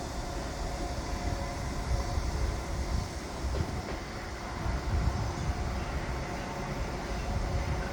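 Construction site machinery noise: a steady low rumble with a faint hum, rising and falling a little in loudness.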